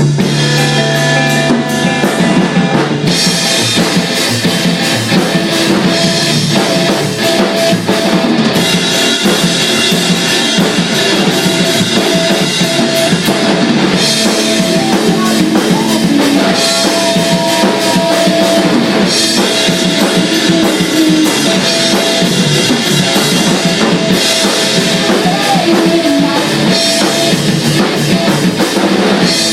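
A band playing rock music, the drum kit to the fore with bass drum and snare, running steadily.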